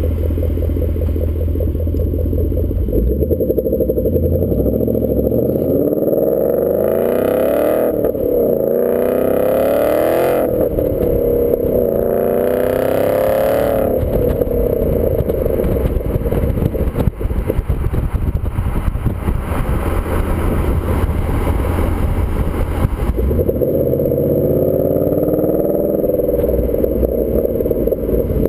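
2014 Ford Mustang GT's 5.0-litre V8 heard through a Roush axle-back exhaust while driving: a low drone at a steady cruise, with the exhaust note rising in pitch as the car accelerates, a few times over.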